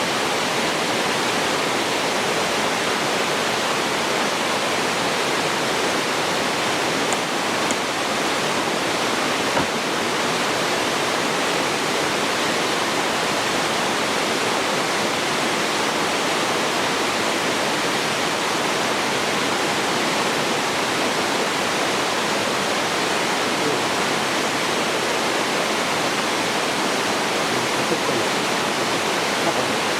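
Waterfall water falling and splashing into a pool, a steady, even rush of noise.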